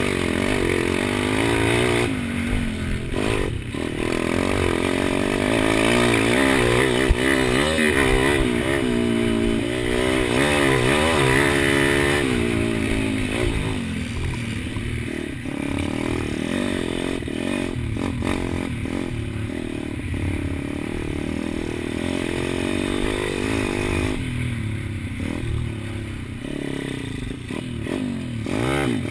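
Pit bike's small single-cylinder four-stroke engine, a Kawasaki KLX110, revving hard and dropping back again and again while being raced. The pitch climbs and falls with each throttle and gear change, with a quick run of rising revs about a third of the way through.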